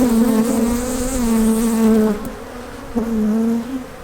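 Agitated honeybees of a queenless colony buzzing around the opened hive: a loud, wavering hum that eases off for a moment about halfway and then returns.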